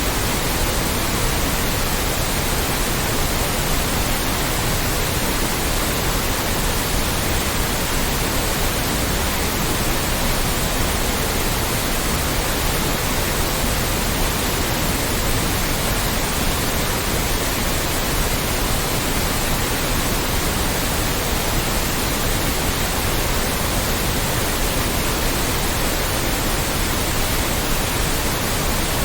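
Loud, steady white noise: an even hiss across all pitches that never changes.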